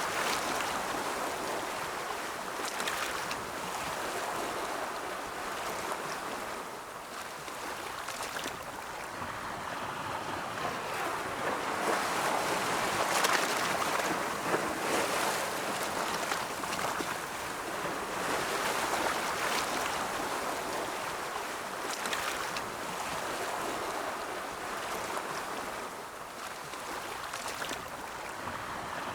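Ocean surf: waves breaking and washing in as a steady hiss that swells and eases every several seconds, loudest about halfway through.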